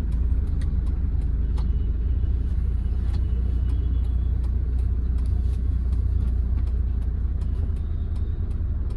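Hyundai Verna turbo diesel car driving in town: a steady low engine and road rumble.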